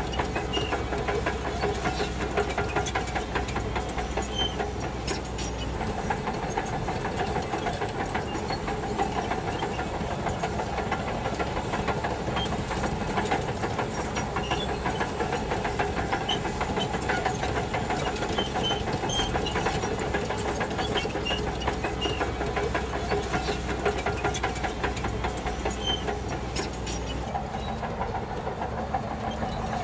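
Shantui DH17C2 bulldozer's diesel engine running steadily under work, with scattered clicks from the machine throughout.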